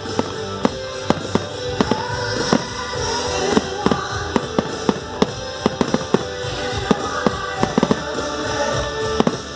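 Fireworks going off in a rapid, irregular string of sharp bangs and cracks, several a second, over music playing throughout.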